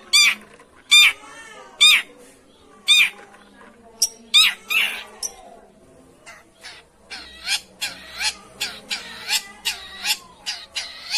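Long-tailed shrike (pentet) giving harsh, nasal calls, about one a second at first, then a faster run of shorter calls in the second half.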